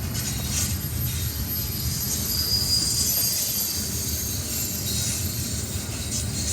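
Train rolling past with a steady low rumble and a thin, high wheel squeal around the middle.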